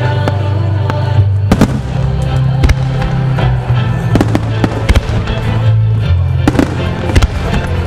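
Starmine fireworks display: a rapid, irregular run of shell bursts and bangs over accompanying music with a steady bass line.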